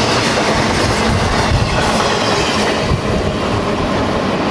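BNSF freight train cars rolling past, a loud steady rumble and rattle of steel wheels on the rails.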